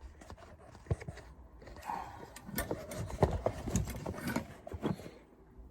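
Irregular light knocks and clicks of objects being handled and set down, about half a dozen spread over a few seconds.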